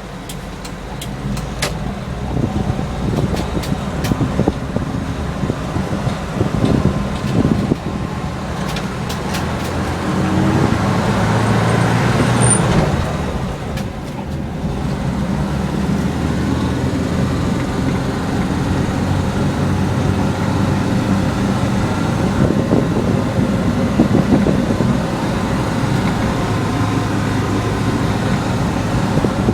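Toyota Kijang Super SX's 7K four-cylinder petrol engine running under way, with road noise, as the vehicle is driven. A few sharp clicks sound in the first seconds. The engine swells from about ten to thirteen seconds in, then dips briefly about a second later.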